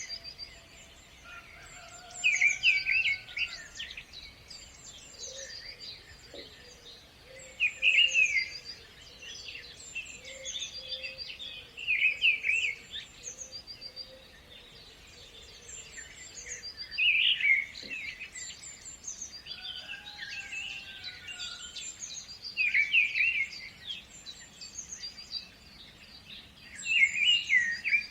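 Birds singing: one bird repeats a loud song phrase about every four to five seconds, over a steady background of thinner, higher chirps from other birds and a few soft whistles.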